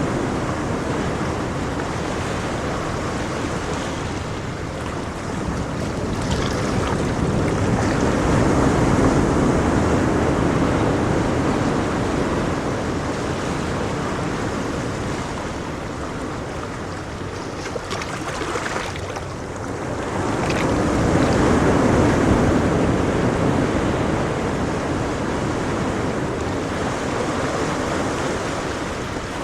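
Ocean waves breaking and washing on a shore, a steady rush of surf that swells twice, the larger swells coming about thirteen seconds apart.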